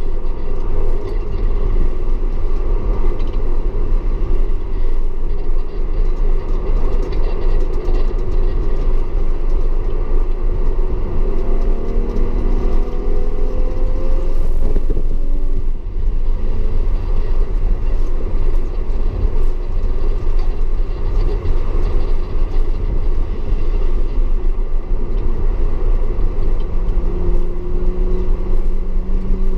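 Audi S4 engine pulling hard on a race track over a constant low rumble of tyre and road noise. The engine note climbs in pitch about twelve seconds in and again near the end as the car accelerates.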